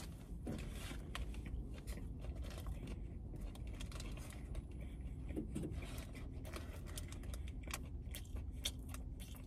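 Close-up chewing of a burger, with small clicks and smacks from the mouth and light rustling of the paper wrapper, over a steady low hum in the car.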